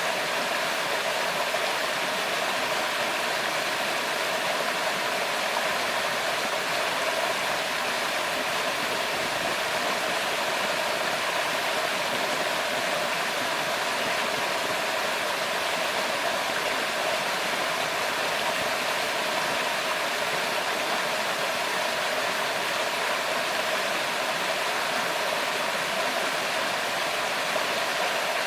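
Steady rushing of flowing river water, an even hiss with no changes.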